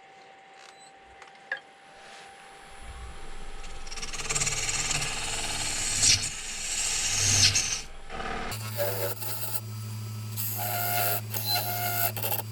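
Turning tool cutting into a spinning wet poplar blank on a wood lathe, a rough rasping, shaving sound that builds from about two and a half seconds in. About eight and a half seconds in a steady low hum joins the cutting, and both stop abruptly near the end.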